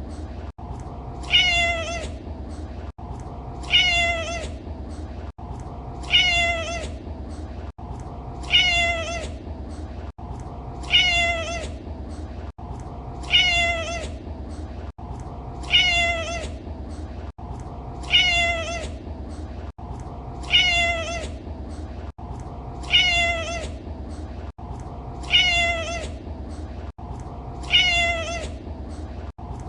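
A domestic cat's meow: the same short call repeated about every two and a half seconds as a loop, over steady background noise.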